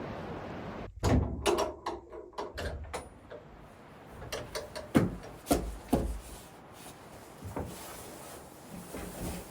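A steady rushing noise cuts off suddenly about a second in, followed by a series of sharp knocks and clicks, the loudest near the start and around five and six seconds in.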